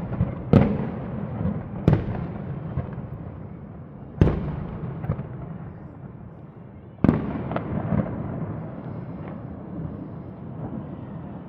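Aerial fireworks shells bursting: four loud booms, just after the start, about two seconds in, about four seconds in and about seven seconds in. Each boom is followed by a long, fading rumble, with fainter pops and crackles in between.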